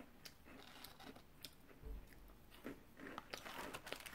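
Faint close-up chewing of a crunchy peanut cookie: a scatter of small crunches and clicks, getting busier in the last second.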